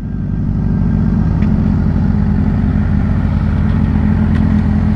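Suzuki GSX-R600's inline-four engine running steadily at low revs, a little louder about a second in.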